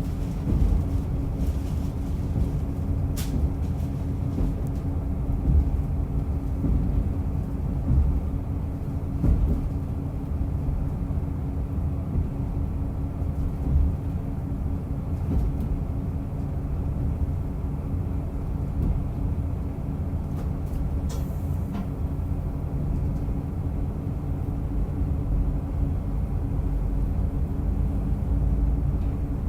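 Diesel railcar running along the line: a steady low rumble with a constant engine hum, and a few sharp clicks.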